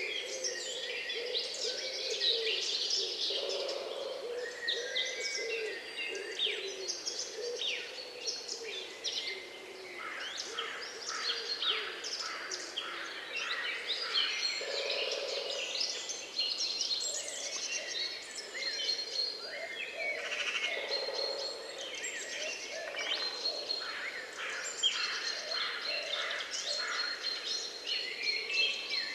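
Several songbirds singing and chirping at once in a dense, continuous chorus of overlapping high chirps and trills, with a lower-pitched call surfacing now and then.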